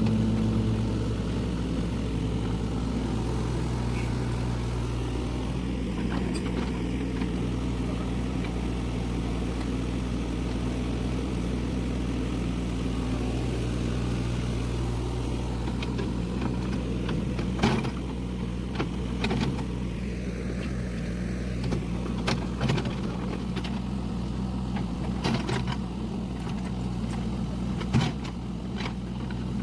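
Hyundai mini excavator's diesel engine running steadily under work, with several sharp clanks in the second half.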